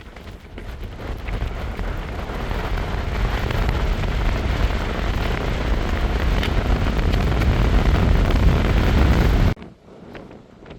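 Strong summit wind buffeting the microphone, a deep rushing noise that builds steadily over several seconds into a heavy gust, then cuts off abruptly near the end.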